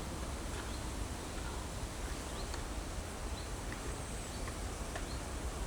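Outdoor lakeside ambience: a steady low rumble and hiss with a few faint, short high chirps or ticks scattered through it.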